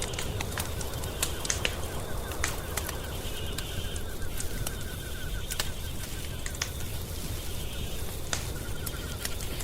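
Wood fire crackling in a fireplace, with irregular sharp pops and snaps over a low steady rumble. A faint, rapid, pulsed trill comes and goes in the background.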